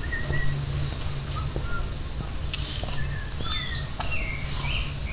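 Several birds chirping and whistling in short, scattered calls, over a steady low rumble.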